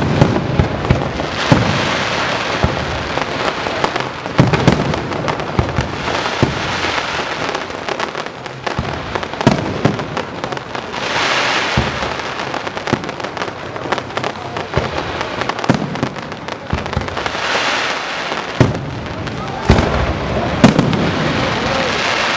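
Aerial fireworks display: shells bursting in loud, irregular bangs, with stretches of crackling and hiss between them, and spectators' voices underneath.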